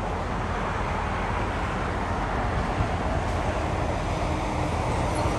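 Steady roar of distant engine noise, even and without a clear pitch.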